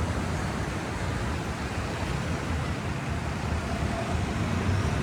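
Steady beach-side ambience: a continuous rushing noise with a low rumble underneath, no single event standing out.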